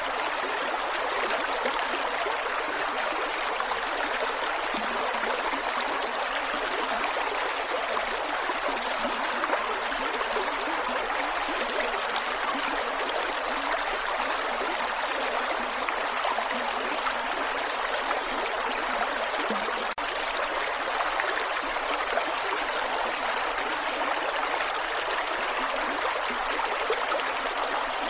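Creek water flowing and gurgling over rocks in a steady, even rush.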